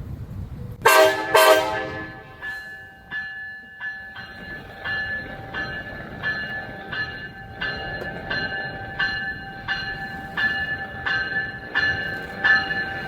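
Train horn sounding two short blasts about a second in, followed by a bell ringing steadily at about three strikes every two seconds.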